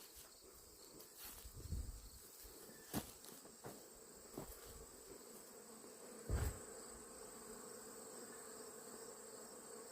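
Faint steady insect chorus: a continuous high trill over a lower, even hum, broken by a few light knocks, the loudest about six seconds in.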